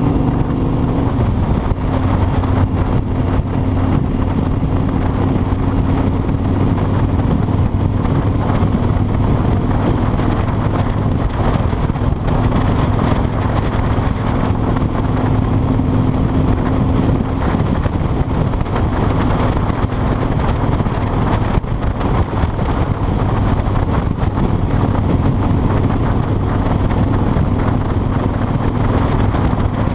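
Kawasaki Vulcan 2000's 2-litre V-twin engine running at a steady cruising speed, with wind noise over the microphone.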